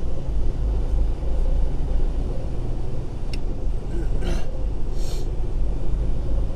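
Semi truck's engine and road noise heard from inside the cab while driving: a steady low rumble, with two brief hisses about four and five seconds in.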